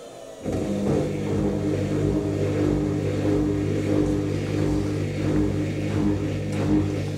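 Washing machine drain pump starting about half a second in and running with a steady electric hum over gurgling water as the drum is pumped out.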